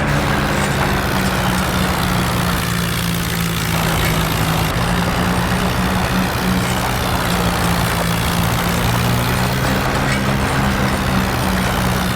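Tractor engine running steadily at a low, even speed, its pitch wavering only slightly.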